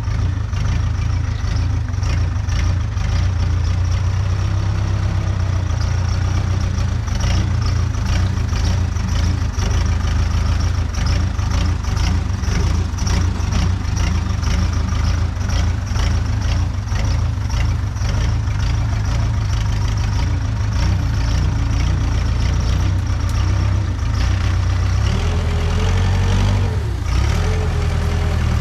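Diesel engine of a worn Case 580K backhoe loader running steadily under way, with constant clattering. A wavering higher whine joins in near the end.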